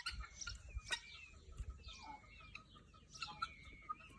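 Young fowl peeping, many soft, short overlapping calls, with a sharp click at the start and another about a second in.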